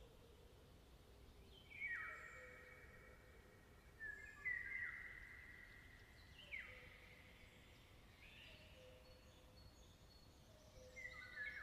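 Faint outdoor background with birds calling: a few short, clear calls, some sliding down in pitch, come every couple of seconds. The loudest are about two seconds in, around four to five seconds in, and near the end.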